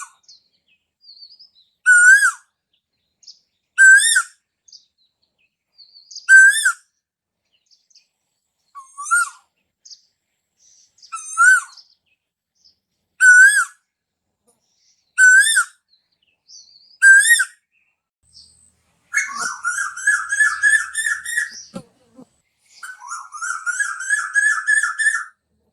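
Asian koel calling: a short rising call, nine times at about two-second intervals, then two long runs of rapid repeated notes near the end.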